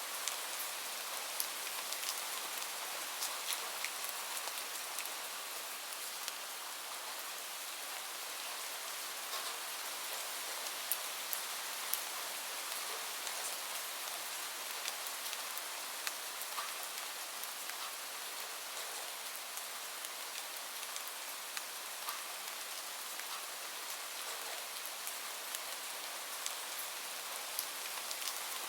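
Steady rain falling on a surface: a constant even hiss with many individual drops ticking through it.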